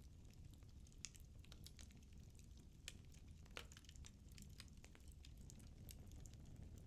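Firewood burning in a fireplace, crackling faintly: scattered sharp pops and snaps at irregular intervals over a low rumble.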